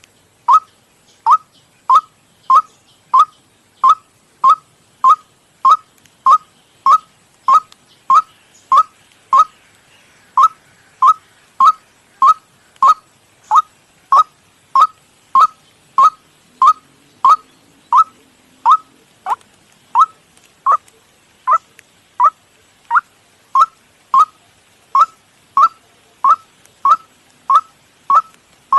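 Recorded white-breasted waterhen call played as a trapping lure: one short note repeated steadily, about one and a half times a second.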